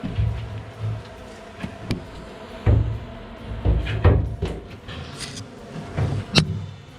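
Irregular knocks and bumps of gear being handled and shifted inside the metal drum of a concrete truck, about a dozen in all, some with a deep thud under them.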